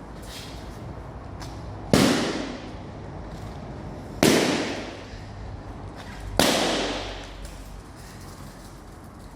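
Three balloons bursting one after another, each a loud sharp bang with a short ringing tail, about two seconds apart.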